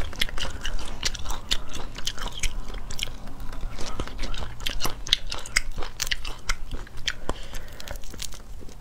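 Close-miked chewing and crunching of spicy shrimp: a rapid, irregular run of crisp crunches and wet mouth clicks.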